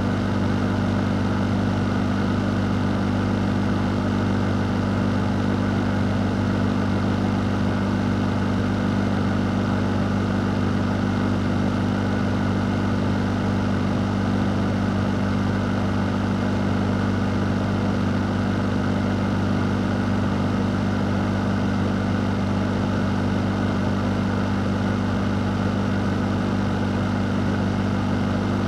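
Fan running steadily: an even rush of moving air over a constant low motor hum, with no change in speed.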